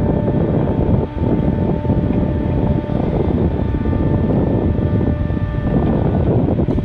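Loud, steady rumble of a moving vehicle with wind buffeting the microphone, and a few faint steady tones above it.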